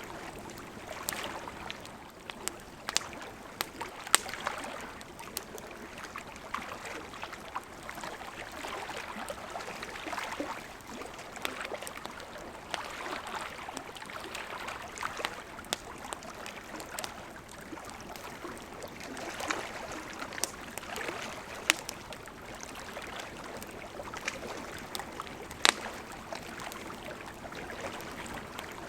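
Wood campfire crackling with scattered sharp pops, a few much louder than the rest, over small lake waves lapping in slow swells every few seconds.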